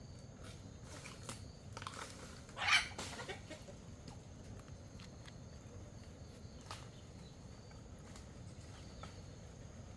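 A single short, loud animal call about three seconds in, over a low steady background with a few faint clicks.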